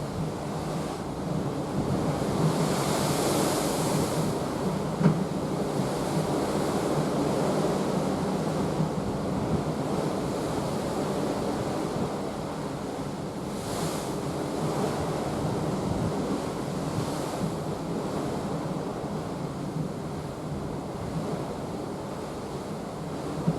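Sea rushing along the side of a moving cruise ship, with wind on the microphone. Hissing swells of breaking water come and go every several seconds, and there is one short knock about five seconds in.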